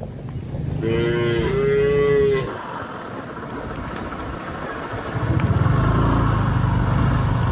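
A cow mooing twice in quick succession, the second call longer, about a second in; from about five seconds in, a steady low rumble.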